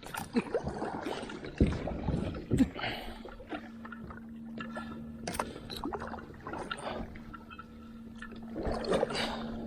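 Water sloshing and knocks against a fishing kayak, with short clicks throughout and a steady low hum coming in about three and a half seconds in.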